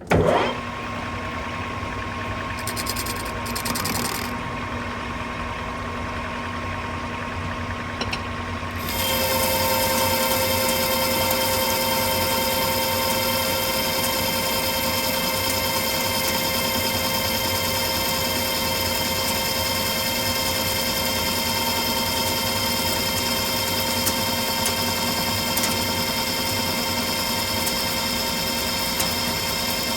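Precision Matthews metal lathe running steadily with a machine whine of several fixed tones, facing a pipe flange held in a 3-jaw chuck. It starts abruptly, and about nine seconds in it grows louder and the whine gains higher tones.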